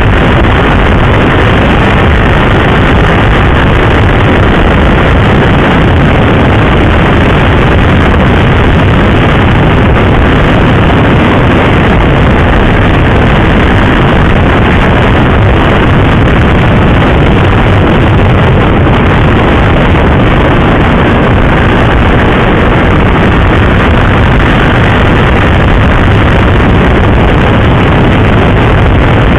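Wind rushing over a motorcycle-mounted microphone while riding at road speed: a loud, steady, unbroken roar with no distinct engine note standing out.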